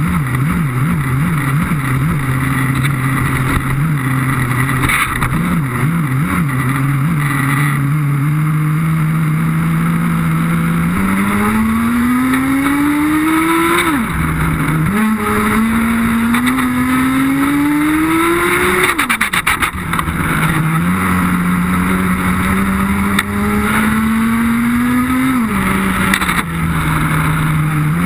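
Nitro engine of a Redcat Racing Lightning STR RC car, heard on board, being run in on a new motor. It holds a steady, slightly wavering note at first, then three times the pitch climbs steadily for several seconds and falls off sharply as the throttle is released, with a fourth climb starting at the end.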